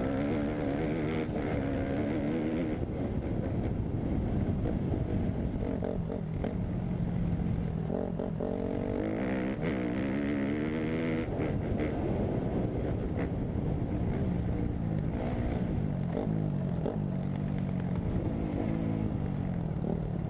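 Dirt bike engine riding along, its pitch repeatedly climbing and dropping as the throttle opens and eases off.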